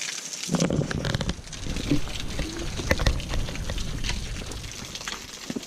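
Steady hiss of running water, with uneven low rumbling and scattered knocks close to the microphone from about half a second in until near the end.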